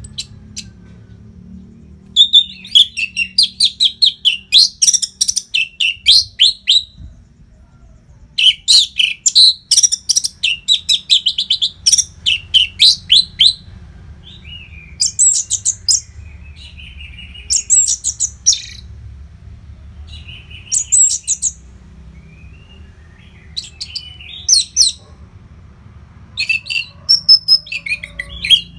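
Orange-headed thrush singing: long, fast phrases of rapid high notes, separated by short pauses, with the later phrases shorter. A steady low hum runs underneath.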